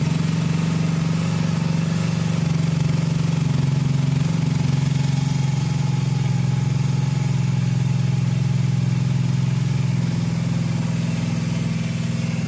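American-style cruiser motorcycle engine idling steadily just after being started, with an even, unchanging note.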